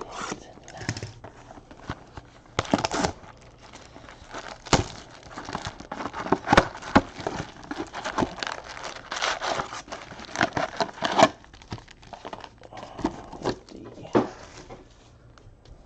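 Trading card boxes and packs being unwrapped by hand: plastic wrap and pack wrappers torn open and crinkled in irregular bursts, easing off near the end.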